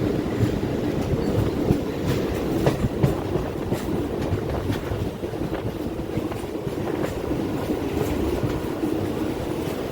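A train running along the track: a steady rumble with irregular clicks of the wheels over the rails.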